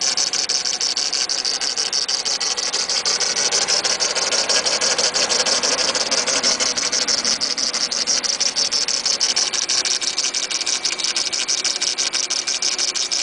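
Mitsubishi Eclipse GS's 420A 2.0-litre inline-four running at idle, with a rapid, even ticking rattle over a high hiss. The noise comes from a failing air-conditioning compressor on the accessory belt, though the owner first suspected the timing belt.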